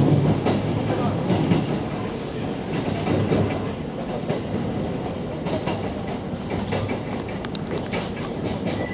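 Running noise of a JR West 115-series electric train heard from inside the car: wheels rumbling on the rails, getting quieter as the train brakes into a station. A couple of brief high squeaks come near the end.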